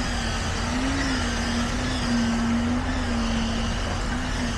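Heavy construction machinery's engine running steadily, its pitch wavering slightly up and down.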